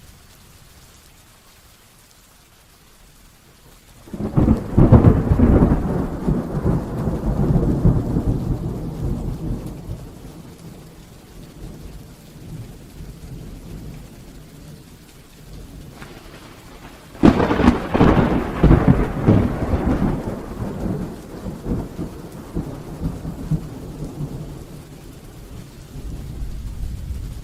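Heavy rain falling during a thunderstorm, with two loud claps of thunder, one about four seconds in and another about seventeen seconds in, each breaking suddenly and rumbling away over several seconds.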